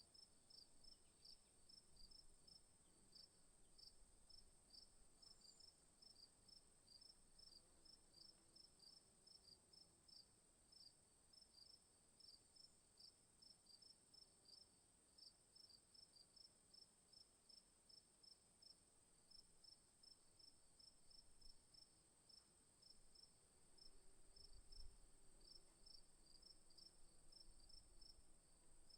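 Faint insects chirping, likely crickets: short high chirps repeating evenly about two a second, over a steady high-pitched hum.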